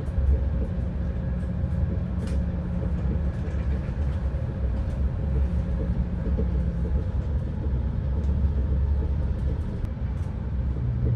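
Passenger cabin of an ETR600 New Pendolino tilting high-speed train on the move: a steady low rumble of running noise with a few faint clicks.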